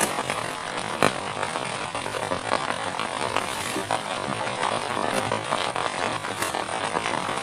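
Heavy rain falling steadily, with many individual drop impacts through it and one sharper knock about a second in.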